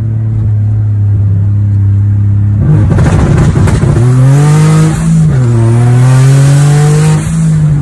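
Turbocharged Infiniti G35's VQ V6 running steadily, then launched hard about two and a half seconds in: the revs climb, dip briefly for a gear change, and climb again with a rushing hiss over the engine before the driver lets off near the end.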